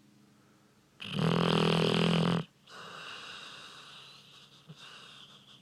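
Dog snoring loudly: one long, loud pitched snore about a second in, then a softer, airy breath lasting a couple of seconds.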